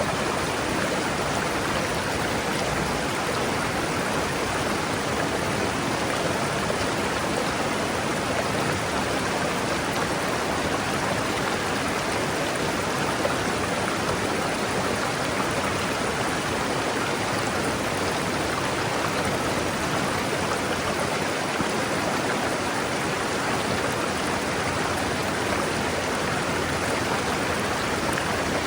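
A forest river rushing steadily over rocks: an even, continuous rushing of flowing water.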